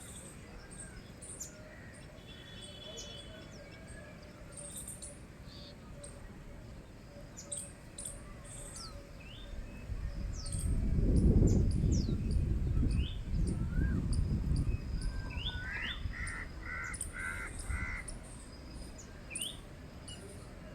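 Birds chirping, with a crow giving about four caws in a row near the end. Midway a loud low rumble lasts about five seconds.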